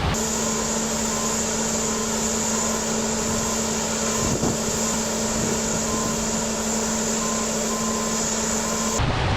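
A machine running steadily, with a constant low hum and a high whine over mechanical noise, and one short click about halfway through. It starts and cuts off abruptly.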